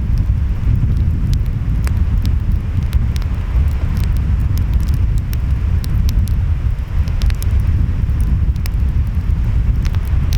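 Wood fire crackling, with scattered sharp pops, over a steady low rumble of waves and wind.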